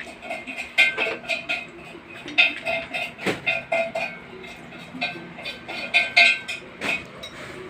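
Metal clinking and tapping: a run of short ringing knocks, several a second at times, with louder knocks about three seconds in and near the end.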